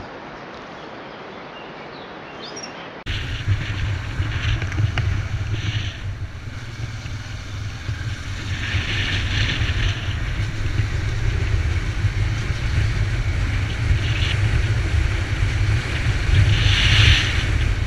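Honda Transalp V-twin motorcycle under way, heard as a steady low rumble of engine and wind rush over the microphone; it starts abruptly about three seconds in, after a softer hiss, and grows louder toward the end.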